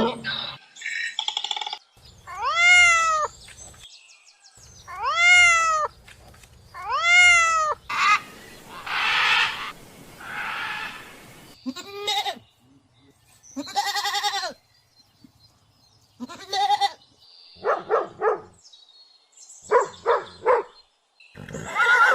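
A run of different animal calls one after another with short pauses between them: three early calls that rise and then fall in pitch, a breathy, noisy call in the middle, and quick pulsed calls near the end.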